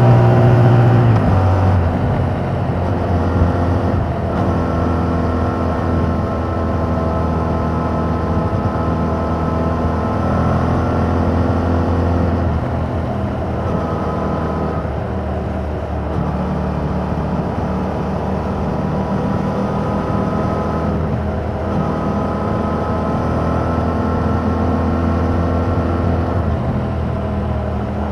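A 2021 Yamaha MT-07's 689 cc parallel-twin engine running through its original exhaust while the bike is ridden. The revs drop about a second in, then hold at a steady cruise with only small changes in pitch.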